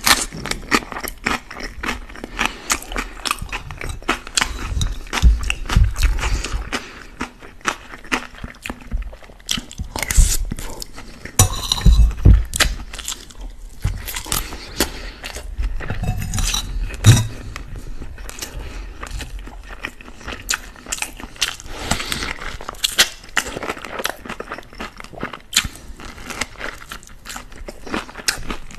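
Close-miked eating: crunchy bites and chewing of a raw green pepper and mouthfuls of spiced chicken-and-rice kabsa, with a metal spoon clinking and scraping on a glass plate. Sharp crackly clicks come one after another throughout.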